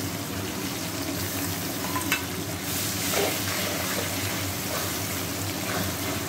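Onion paste sizzling as it fries in hot oil in a kadai, stirred and scraped with a metal spatula. A single sharp click about two seconds in.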